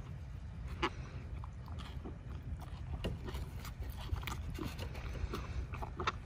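A person biting into and chewing a soft fish taco, short irregular mouth clicks about once a second over a low steady rumble.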